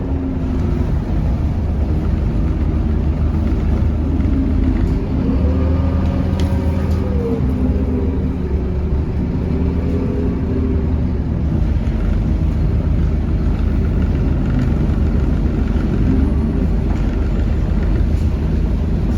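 Scania K230UB bus's nine-litre five-cylinder diesel and ZF automatic gearbox running under way. The engine drone's pitch rises and falls twice in the middle and climbs again near the end as the bus accelerates through the gears.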